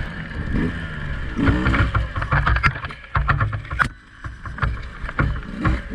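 Two-stroke dirt bike engine running at low revs, with a short throttle blip about a second and a half in, and scattered knocks and clunks.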